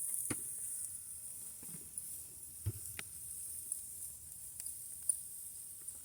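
Wood campfire crackling: scattered sharp pops and snaps over a steady high hiss.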